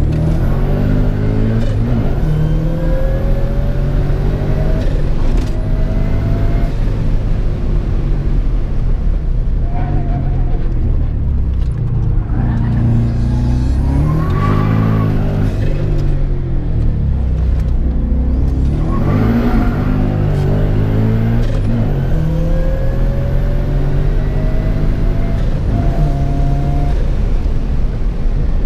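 A Volkswagen Beetle race car's engine, heard from inside the cabin, revving hard under acceleration. The engine note rises in pitch and drops back several times.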